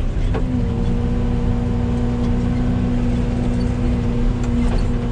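Yanmar ViO80 mini excavator's diesel engine running steadily while digging, with a steady droning tone over it.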